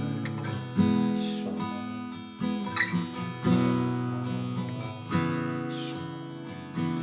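Acoustic guitar strummed slowly, each chord left to ring before the next, about half a dozen chord changes.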